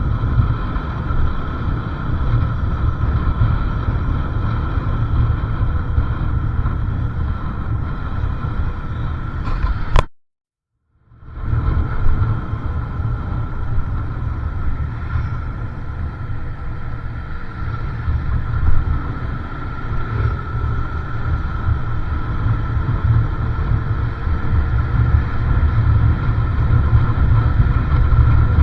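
Motorcycle running along the road, with a steady low rumble and a faint steady tone. The sound cuts out completely for about a second partway through.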